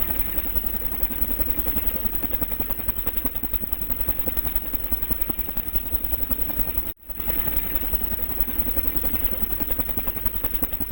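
Small DC motor running fast in a homemade cardboard and ice-cream-stick helicopter, a steady buzzing rattle with its blades spinning. The sound cuts out for an instant about seven seconds in, then carries on.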